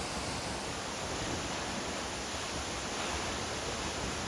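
Waterfall roaring steadily, the constant rush of falling water close by.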